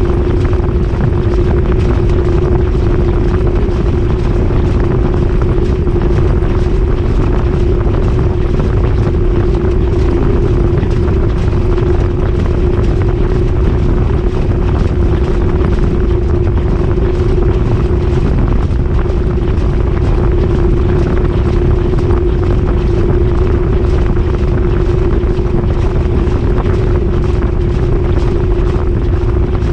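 GE GTW220ACKWW top-load washing machine spinning at high speed, heard from inside the drum: a loud, even rush of noise over one constant motor hum.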